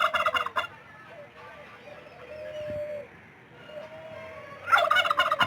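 Turkey gobbling: a loud, rapid, stuttering call right at the start and again near the end, with fainter bird calls between.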